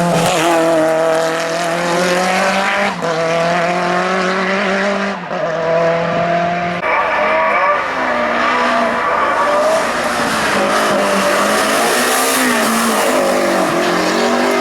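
Racing car engine at high revs accelerating hard through the gears, its pitch climbing and then dropping at upshifts about three and five seconds in, then rising and falling as it runs on.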